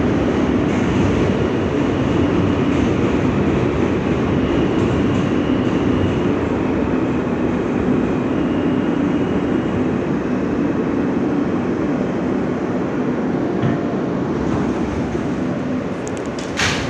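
R160 subway car heard from inside, its wheels and motors making a steady rumble on the track. The rumble eases slightly in the last few seconds, and a sharp click comes near the end.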